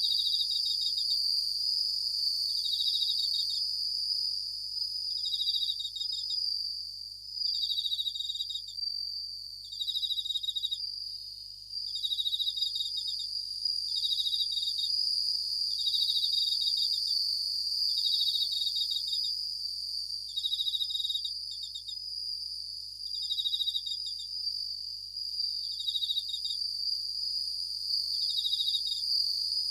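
Japanese bell crickets (suzumushi) singing: short pulsed trills repeating about every two seconds, over a steady high-pitched ringing that runs underneath without a break.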